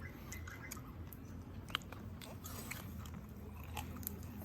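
A person chewing a mouthful of grilled prawn, with scattered small clicks and one sharper click a little under two seconds in, over a low steady hum.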